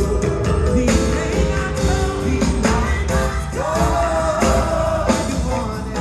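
Gospel choir and band performing, voices singing over bass and drums; about halfway through, one voice slides up into a long held note.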